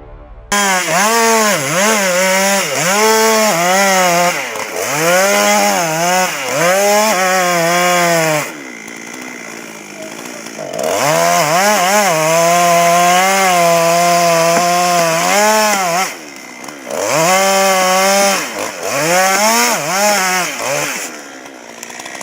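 Chainsaw revved again and again, its engine pitch rising and falling with the throttle. It drops back to a quieter idle about nine seconds in, again around sixteen seconds, and near the end.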